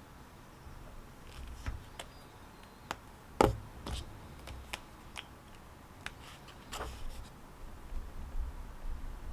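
Irregular small clicks and taps from objects handled at a study desk, with one louder knock about three and a half seconds in.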